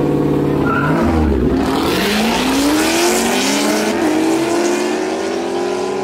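Race car launching at full throttle. A steady engine note gives way about a second in to a burst of noise, then the engine pitch climbs, dropping back at each gear change.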